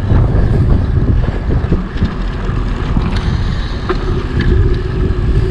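Wind buffeting the microphone of a camera riding along on a moving bicycle: a dense, steady low-pitched rush with no break.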